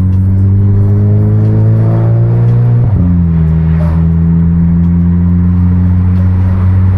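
Turbocharged 2.0 TSI four-cylinder of a big-turbo MK6 VW GLI, heard through an exhaust microphone, pulling with its pitch slowly climbing. About three seconds in the revs drop sharply in a quick upshift, then climb slowly again.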